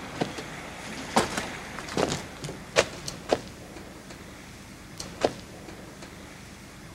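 A series of sharp knocks and clicks, about nine in the first five seconds at an uneven pace, some with a short ring, over a faint steady hiss.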